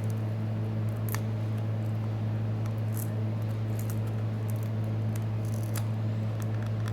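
Small scrapes and ticks of a pry tool working at a smartphone's cracked display glass, a few times, over a steady low electrical hum.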